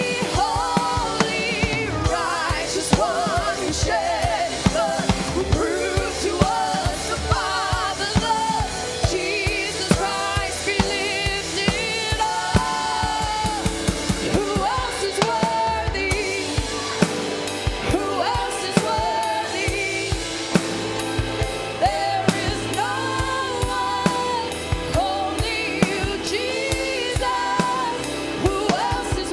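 Worship music: singing voices over a drum kit keeping a steady beat.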